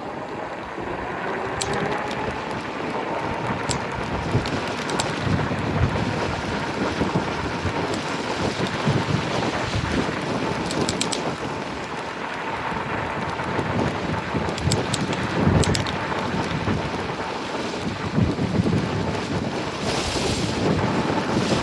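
Wind buffeting the microphone while riding an e-bike at speed, over a faint steady electric-motor whine.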